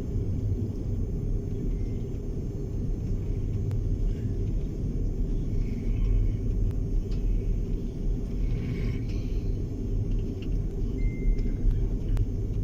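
Steady low rumble of an Airbus A330-300 heard from inside the cabin while it is under way.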